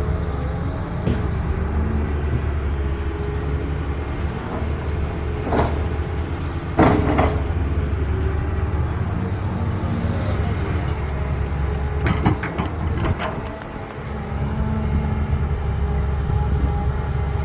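CAT excavator's diesel engine running steadily with a hum over it. Sharp clanks and knocks come about five and a half and seven seconds in, the loudest near seven, and a run of clanks around twelve to thirteen seconds in.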